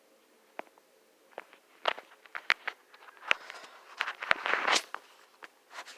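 Irregular clicks, taps and knocks, a dozen or so, with a short rustle about four and a half seconds in: handling noise of someone moving things around a room.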